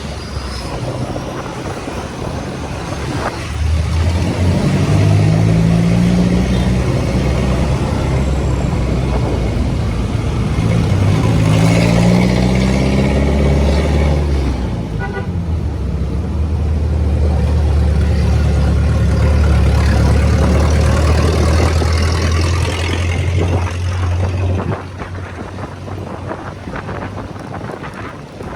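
Motorcycle engine heard from the rider's position, rising in pitch twice as it accelerates, then running steadily at cruising speed before easing off about 25 seconds in, with wind and road noise throughout.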